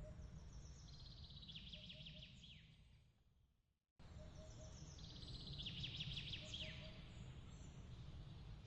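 A small bird's rapid high trilling song, each phrase ending in a falling slur, sung twice over a low steady rumble. The whole ambience fades out to near silence about three seconds in, then cuts straight back in a second later, as at the seam of a looped ambience track.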